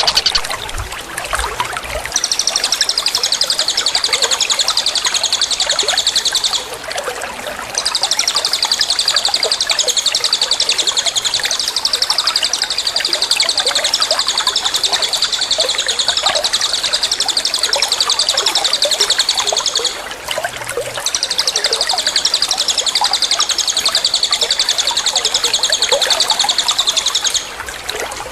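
Songbird singing a high, very rapid trill in long bouts, broken by short pauses twice and stopping near the end, over a steady trickle of running water.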